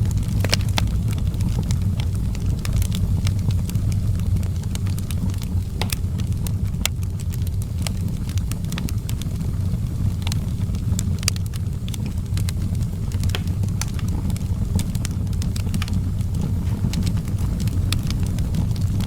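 Wood fire burning in an outdoor fireplace: a steady low rumble under frequent irregular sharp crackles and pops.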